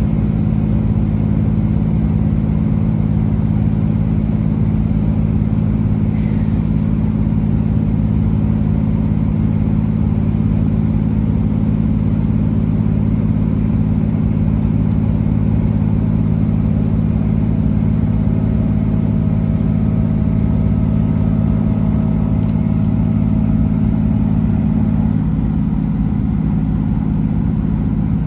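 Class 165 Networker Turbo diesel multiple unit running along the line, its underfloor diesel engine giving a steady, loud drone with rumble. The engine note shifts slightly near the end.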